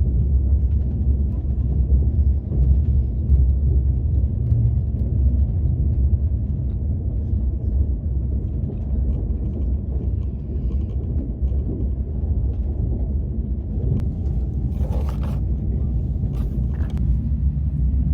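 Steady low rumble inside a KTX high-speed train carriage while it is running, with a few light clicks about three-quarters of the way in.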